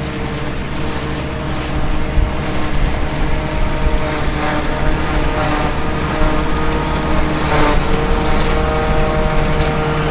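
Tractor engine running steadily, its pitch shifting a little a few times, with wind rumbling on the microphone.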